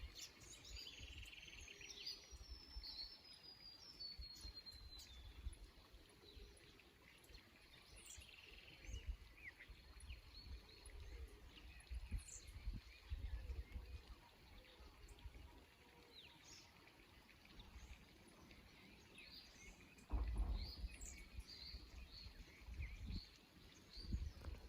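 Small wild songbirds calling faintly with scattered short chirps, and one long whistle sliding steadily downward in pitch over the first few seconds.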